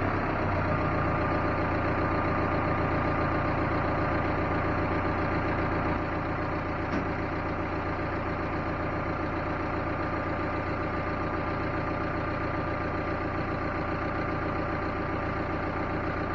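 Vehicle engine idling steadily, getting slightly quieter about six seconds in.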